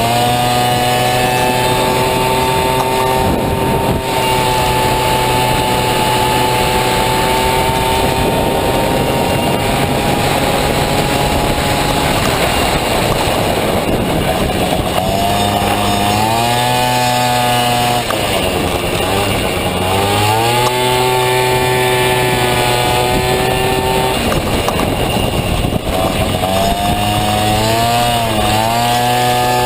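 Small two-stroke scooter engine, a Honda Dio unit in a Honda Motocompo, running hard at high revs. Its pitch holds steady, then dips and climbs back a few times in the second half as the throttle is eased and reopened.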